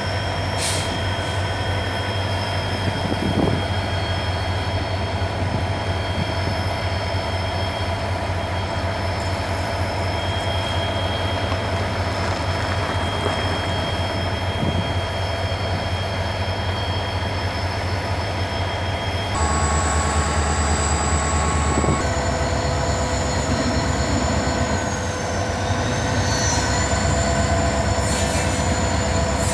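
Two diesel locomotives running with a long train of railway cars, the engines giving a steady low drone under high, steady squealing from the wheels on the rails. About 19 s in the sound shifts and gets slightly louder, with new squeal tones, some of which slide in pitch.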